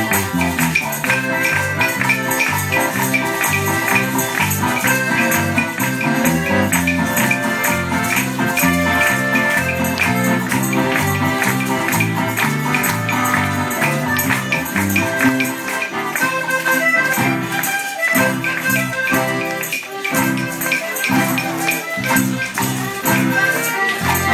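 Live Mexican popular music from a small acoustic group: accordion and guitars playing a tune, with tambourines shaken and struck in a steady rhythm.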